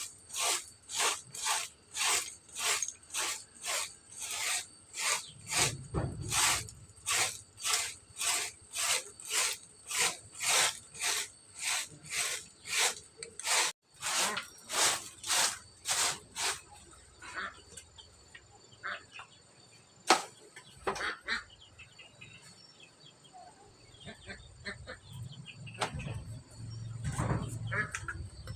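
Rhythmic scraping strokes, about two a second, that stop about 16 seconds in. After that come faint steady high tones and a single sharp click.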